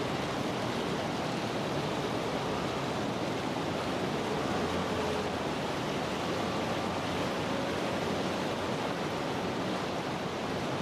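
Steady rush of white water from river rapids and a waterfall, an even noise with no rhythm or pitch.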